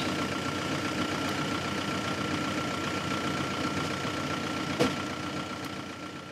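Vehicle engine idling steadily, with a constant whine over the hum and a single click about five seconds in; the sound fades out near the end.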